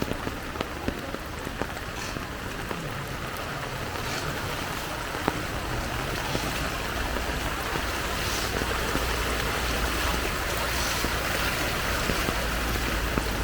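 Heavy rain pouring steadily, with scattered close drops ticking. A low rumble builds up in the second half.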